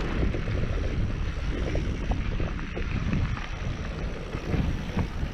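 Wind buffeting the microphone over the rumble and rattle of a mountain bike riding over rough trail, with small knocks here and there.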